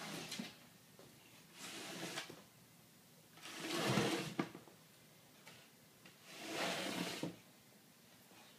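Cat hissing: four breathy hisses, each under a second, about two seconds apart, the third loudest.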